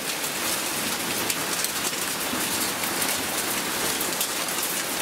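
Heavy rain falling on paving slabs and garden plants: a steady dense hiss with many sharp ticks of drops striking.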